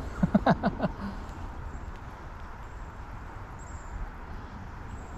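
Steady rush of flowing creek water, with a brief vocal sound in the first second and a few faint high chirps in the second half.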